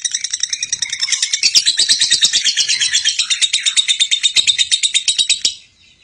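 Lovebird's long 'ngekek' chatter: a fast, unbroken run of high, harsh chirps that stops suddenly about five and a half seconds in.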